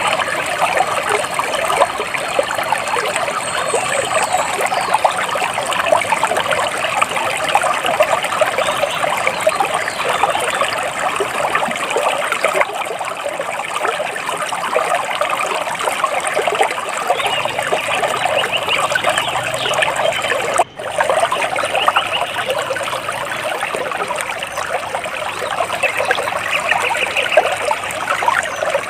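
Water splashing and trickling steadily, with a few faint bird chirps in the first seconds. The sound cuts out for a split second about two-thirds of the way through.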